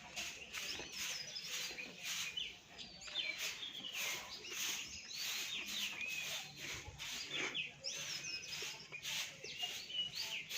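Birds chirping: many short, quick calls following one another without a break.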